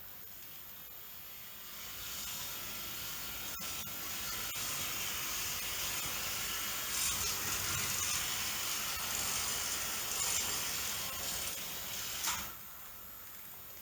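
Märklin HO model freight train rolling on C Track, a steady rushing, hissing noise with a few clicks. It swells and then stops abruptly with a sharp click near the end.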